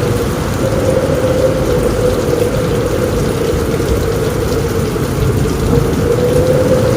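Steady heavy rain on a roof, with a deep continuous rumble underneath and a steady mid-pitched tone wavering slightly through it.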